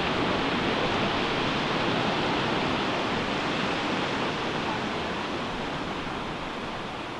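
Ocean surf washing onto a beach: a steady rush of breaking waves that slowly eases off over the last few seconds.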